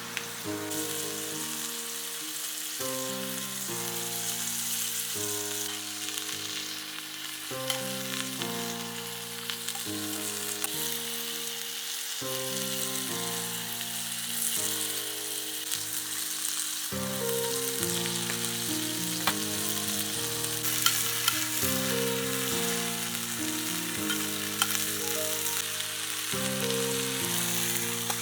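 Meat sizzling and frying in a stainless steel camp pot over a campfire, a steady crackling hiss with a few sharp clicks. Background music plays alongside it.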